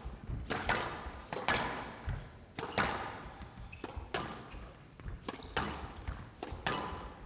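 Squash rally: the ball striking rackets and court walls in quick succession, a sharp knock about every half second, often in close pairs.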